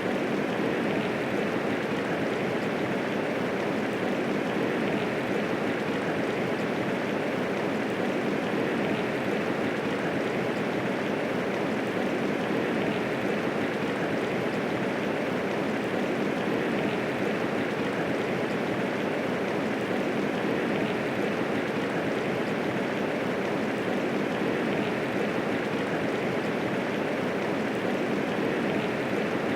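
Medium rainfall falling steadily, with no thunder: an even, unbroken hiss of rain with no single drops or gusts standing out.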